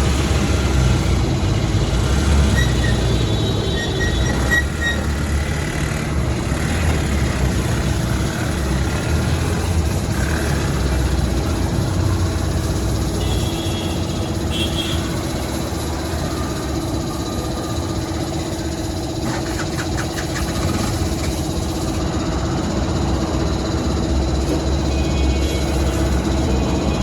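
Steady engine rumble with a constant low hum.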